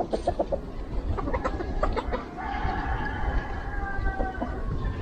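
Chickens clucking in quick runs, then a rooster crowing one long call from about halfway through, over a low rumble.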